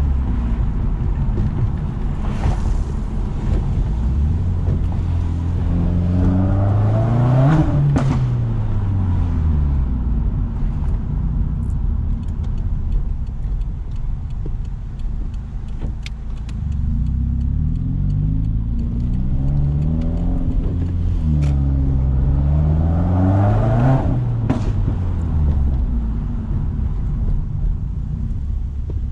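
Subaru WRX turbocharged flat-four with its muffler and resonator deleted, pulling hard twice with the exhaust note climbing in pitch and then dropping as the throttle is lifted. Sharp popping cracks come at each lift-off, about a third of the way in and again near the end, with a few smaller ones in between: the exhaust backfiring on the overrun.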